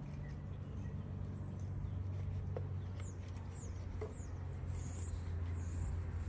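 Small birds chirping in short, high, downward notes from about three seconds in, over a steady low hum and a few faint taps.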